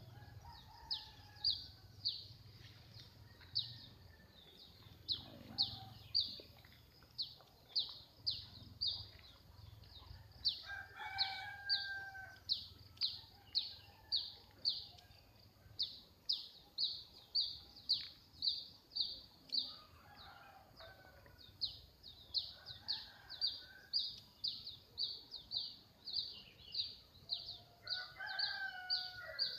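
A bird calling over and over with short, high, falling chirps, about two or three a second. A rooster crows fainter underneath, several times.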